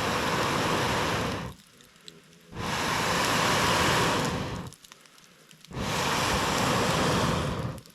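Three long puffs of air blown hard through a fire-blowing pipe into a campfire, each about two seconds long with a short pause for breath between them.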